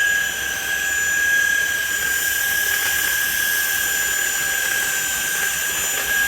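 SMOTURE cordless stick vacuum running on its medium setting, a steady high-pitched motor whine over the rush of air, as it sucks up spilled cane sugar.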